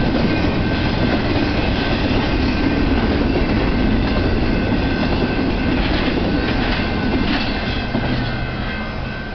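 Double-stack intermodal freight cars rolling past: steady rumble and clatter of steel wheels on rail, easing off in the last second or so as the tail end of the train passes.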